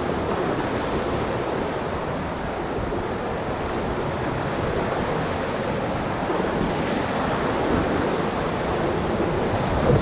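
Whitewater rapids rushing steadily around a raft.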